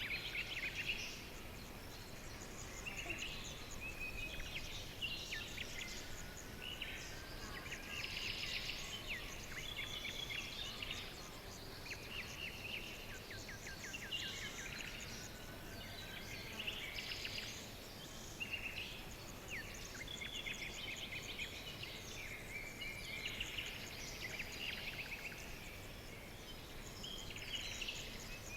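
Several birds singing and calling at once: overlapping chirps, high trills and quick runs of repeated notes, continuing without a break over a low steady background hiss.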